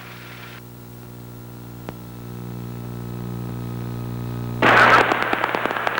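Cabin drone of a twin-engine light airplane's engines, steady and slowly growing louder, with a single click about two seconds in. About five seconds in, a loud crackling radio transmission cuts in over it.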